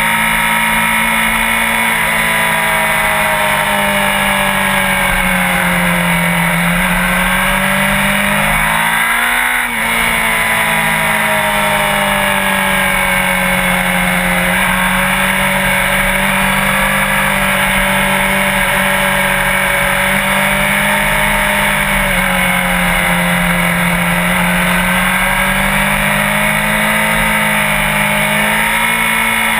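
Sport bike engine running under way, its pitch drifting slowly up and down with the throttle. About nine seconds in the revs climb quickly and then drop sharply, like a gear change.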